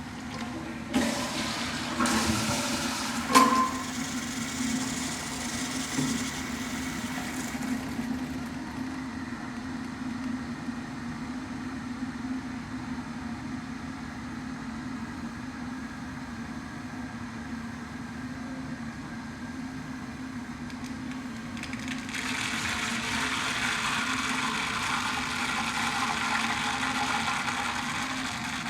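Toilet flushing and refilling over a steady grinding hum. The flush starts about a second in with several clicks and one sharp knock, and a rush of water comes in again later. The owner at first took the grinding for a recalled Flushmate pressure-assist unit.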